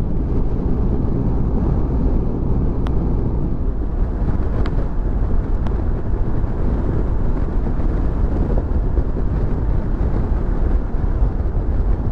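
Motorcycle running at steady road speed, its engine and the wind buffeting the rider's microphone blending into one continuous low rumble.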